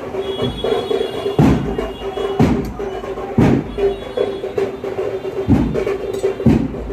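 Drums beating in a steady rhythm, with a heavy low stroke about once a second and lighter strokes between, over a steady held tone.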